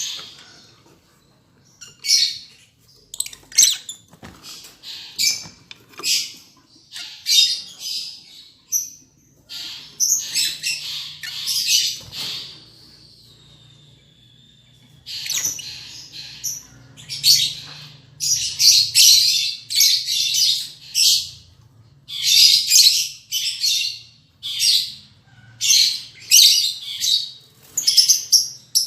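Lovebirds calling: shrill, harsh chirps in quick flurries, with a short lull partway through before the calling picks up again.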